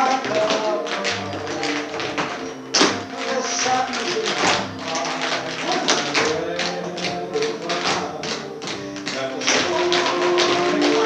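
Tap shoes striking the floor in quick rhythmic clusters of clicks over recorded music, with a loud stamp about three seconds in.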